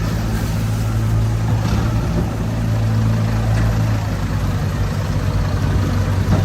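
Diesel tractor engine running steadily at low, even speed.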